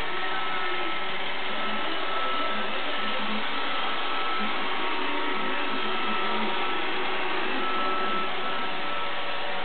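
iRobot Roomba 560 robot vacuum running: a steady whir of its vacuum motor and brushes with a faint high-pitched whine.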